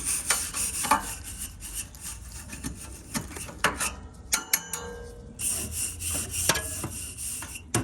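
Hand tool scraping and brushing along the dirty fins of an air-conditioner condenser coil in repeated rough strokes, loosening packed dirt so the cleaning chemicals can work. There is a short lull a little past halfway.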